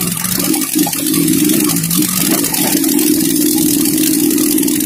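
Trail motorcycle engine working hard up a steep, rocky track, a steady note that climbs a little about two seconds in and then holds.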